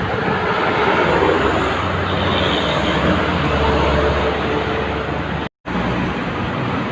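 Heavy trucks on a highway: steady engine and tyre noise, broken once by a sudden, very brief gap about five and a half seconds in.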